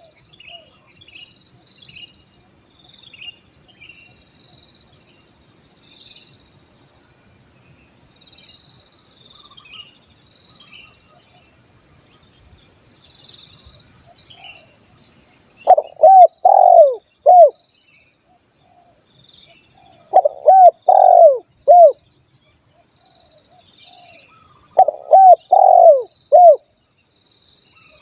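Spotted dove cooing: three loud phrases of several arched coo notes, beginning a little past halfway through, over a steady high insect trill and faint chirps of small birds.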